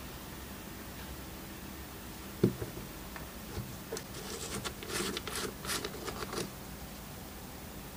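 Hand work on small tool parts: a single sharp knock about two and a half seconds in, then a run of quick scratchy rubbing strokes for about two and a half seconds.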